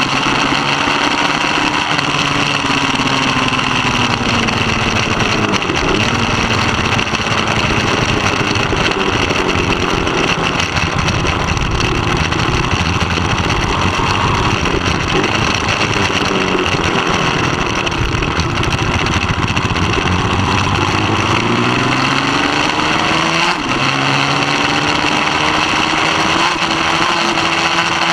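Middleweight racing motorcycle engine at race pace, its revs rising and falling repeatedly as the bike works through the gears, with sharp pitch changes about six seconds in and again near twenty-four seconds.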